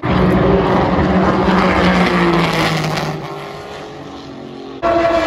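Ferrari sports cars going past at speed, their engines loud and then fading away over about three seconds. Near the end another car comes in abruptly, its engine pitch falling as it passes.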